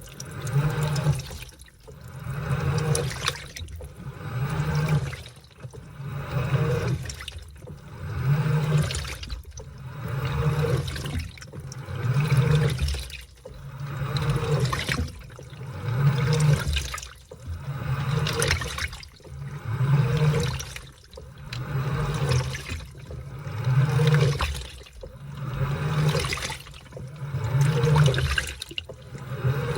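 Washing machine agitating a load of laundry in water: the drum turns in swells about every two seconds, each with a low motor hum and water sloshing through the clothes.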